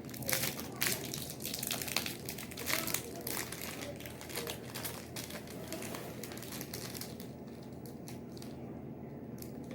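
Plastic wrapper of a chewy granola bar crinkling as it is handled and opened, a fast run of crackles that dies down after about seven seconds.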